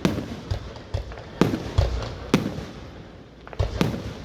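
Fireworks going off: about five sharp bangs at irregular intervals, each trailing off with a short rumbling echo.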